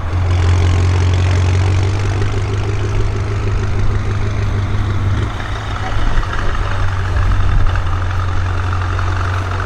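BMW M5 F90's twin-turbo V8 running steadily through an aftermarket exhaust, a constant deep drone with no revving.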